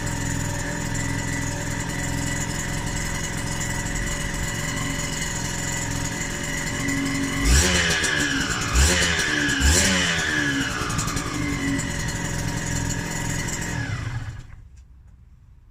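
Freshly rebuilt Yamaha DT125R single-cylinder two-stroke engine idling steadily, blipped three times in quick succession about halfway through, each rev rising and falling back to idle. The engine is then switched off near the end and stops.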